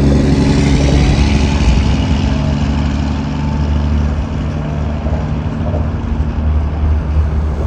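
Steady motor-vehicle engine hum with road noise, holding at an even level.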